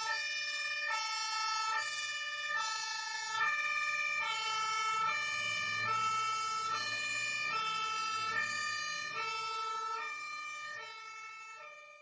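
Emergency vehicle's two-tone siren, switching steadily between a high and a low note, each held just under a second. It fades over the last couple of seconds and then cuts off.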